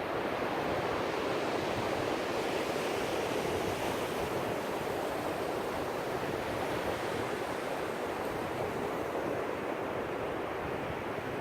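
Ocean surf: waves breaking and washing on a beach in a steady rush, with no single break standing out.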